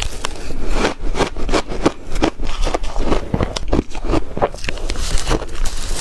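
Ice being bitten and chewed close to the microphone: dense, irregular crunching, several crunches a second.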